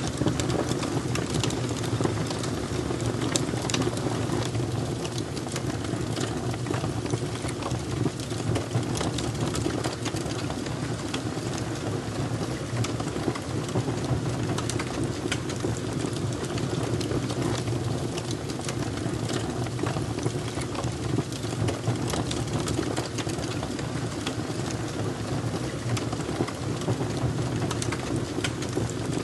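Fire crackling: frequent short pops and snaps over a steady low rumble.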